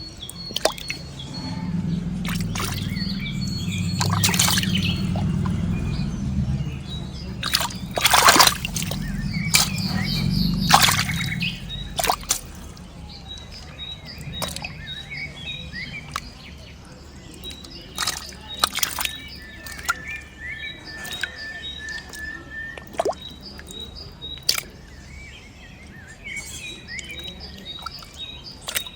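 Water sloshing and splashing, with several sharp splashes in the first half, then quieter scattered splashes and clicks while small birds chirp.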